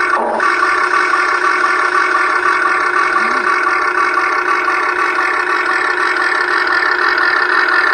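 Huina 1580 RC excavator running, a steady engine-like drone with several held tones.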